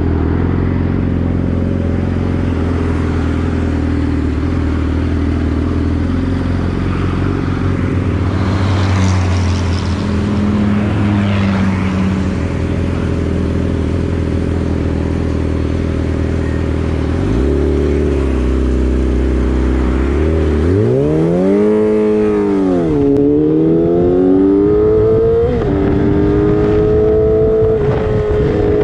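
Motorcycle engine running at a steady pitch while cruising. About two-thirds of the way through, the revs climb, drop back, then climb again and settle at a higher steady pitch.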